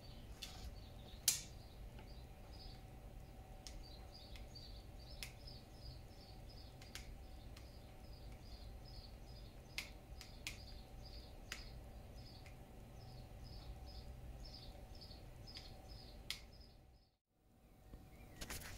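Faint, steady chirping of a small bird, short high chirps about two or three a second, with a few sharp clicks of small parts being handled on a workbench. The loudest click comes about a second in.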